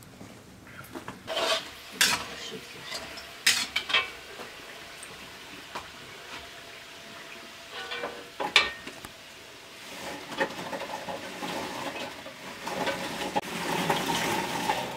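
Large metal trays clinking and knocking against a cooking pot several times, then a sizzle that builds from about two-thirds of the way through and is loudest near the end as fried dough balls are tipped from a tray into the hot pot.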